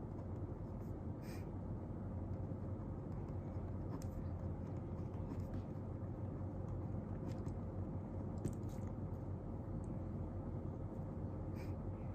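Steady low background noise with a faint hum, and a few soft clicks scattered through, typical of quiet desk work.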